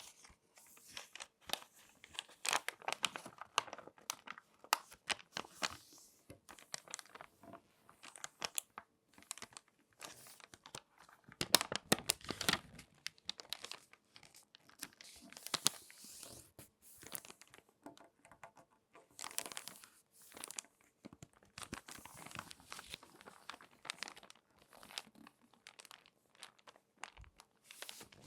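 Glossy magazine pages being folded and crinkled by hand: irregular crisp crackles and rustles in bursts, with brief pauses between handlings and the loudest crinkle about twelve seconds in.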